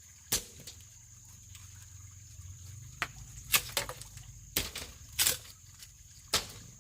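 About six sharp knocks or chops at uneven intervals, over a steady low hum and a faint steady high tone.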